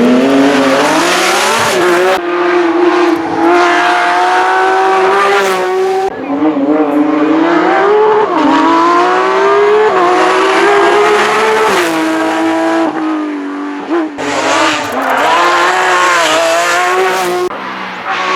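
Porsche 911 GT3's flat-six engine pulling hard at high revs, its pitch climbing steadily and dropping sharply several times at gear changes or lifts.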